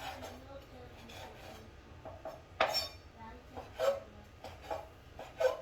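Kitchen utensils scraping and clinking against pots and dishes, with a few sharp knocks that ring briefly, about two and a half, four and five and a half seconds in.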